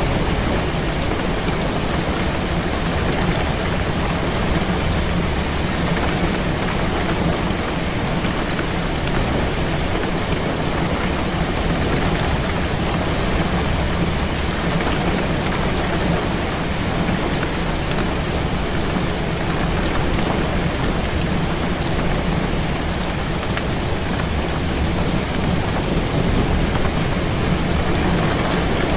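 Heavy rain falling steadily against a window, an even rushing hiss with a constant low rumble underneath.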